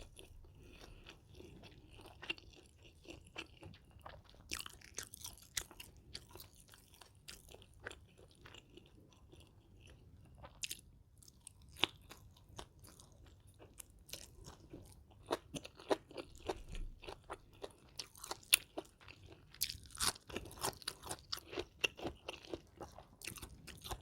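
A person chewing and crunching food close to the microphone: irregular crisp crunches and wet mouth clicks, coming thicker about five seconds in and again through the last third.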